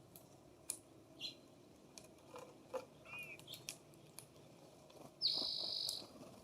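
Birds at a feeder: scattered short chirps and sharp clicks, then one loud, harsh call lasting under a second about five seconds in.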